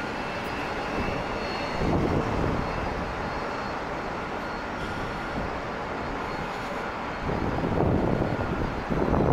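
Jet airliner engines running on the airfield, a steady rushing noise with a faint high whine; the rush grows louder about seven seconds in.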